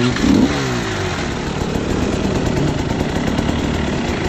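Dirt bike engine revving: a loud rev that drops in pitch within the first second, then runs on steadily.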